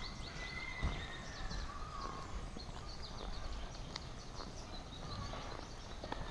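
Several birds chirping and singing, with held whistled notes among quick high chirps, over a steady low rumble of outdoor background noise. A single thump comes about a second in.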